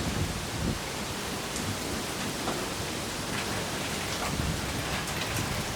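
Steady noise of a severe thunderstorm's wind and rain, with scattered sharp ticks of raindrops hitting close by as the rain sets in.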